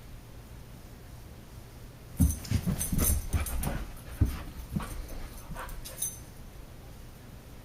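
A husky play-fighting with a cat: after a quiet start, a burst of about four seconds of scuffling thumps and clicks mixed with the husky's whimpering noises.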